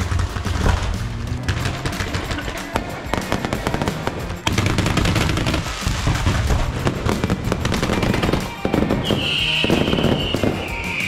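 Beehive fireworks, masses of bottle rockets fired from a rocket battery, crackling and banging in dense rapid-fire volleys like machine-gun fire. Music is laid under it. Near the end a high shrill sound falls slightly in pitch.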